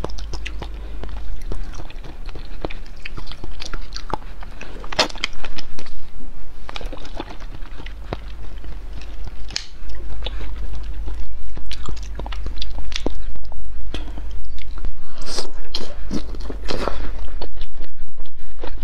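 Close-miked eating: wet chewing and mouth smacking with many sharp, irregular clicks, from someone eating soft jelly and spicy malatang hot-pot food.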